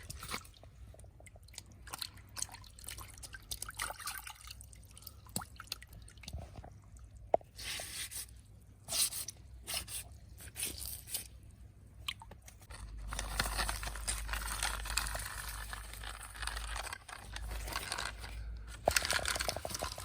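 Plastic toy vehicles being handled and washed: scattered clicks and drips. About two thirds of the way in, a steadier, louder rush of water with a low rumble starts.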